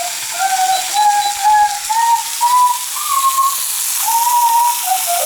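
Chicken breast sizzling and spitting in hot fat on a grill, a steady hiss, with a high, wavering whistle-like tone coming in short stretches over it.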